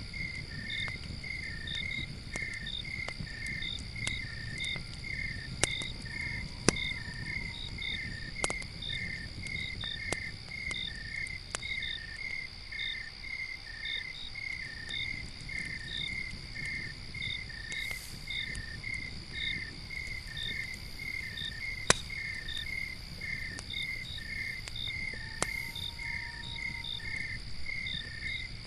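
Crickets chirping in an even rhythm of about two chirps a second over a continuous high insect drone, with scattered sharp crackles and pops from a campfire, one louder pop about two-thirds of the way through, and a low rumble underneath.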